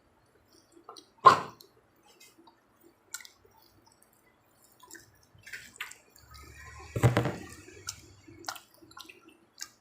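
Close-up eating and handling noises: scattered small clicks and taps, a sharp knock about a second in, and a longer noisy stretch with a low rumble around seven seconds in.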